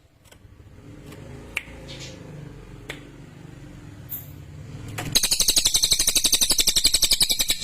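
Cililin (lesser forktail) singing: a loud, high, very fast rattling trill that starts about five seconds in. Before it there is only a low background rumble with a few faint ticks.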